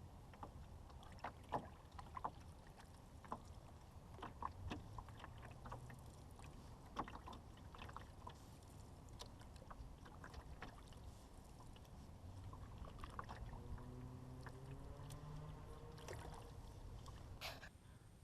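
Fibreglass canoe being paddled, with quiet paddle splashes and irregular sharp knocks of the paddle against the hull over a low rumble.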